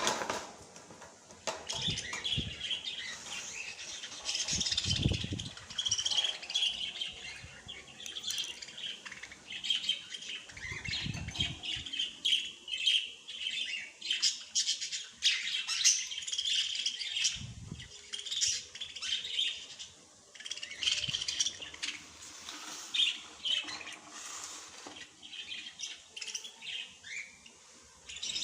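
Small birds chirping and twittering continuously in quick, overlapping high calls, with a few soft low thumps in between.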